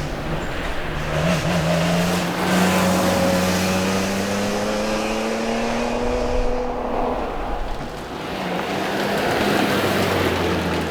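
BMW E46 M3's 3.2-litre straight-six engine pulling hard at speed. Its pitch climbs steadily for several seconds, falls away about seven seconds in as the driver lifts, then builds again, over steady tyre and road noise.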